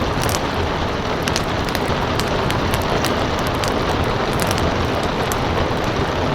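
Steady rain with the irregular pops and crackles of a wood fire.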